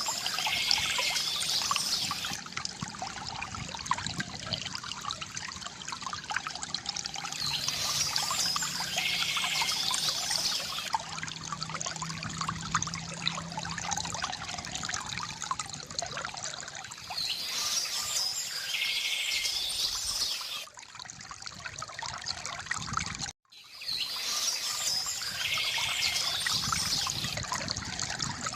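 Water trickling and splashing steadily from a bamboo fountain, with a bird chirping four times at intervals. The sound drops out for a moment about two-thirds of the way through.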